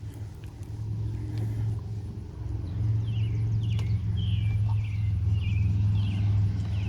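A steady low rumble that swells after a couple of seconds, with faint short high chirps over it.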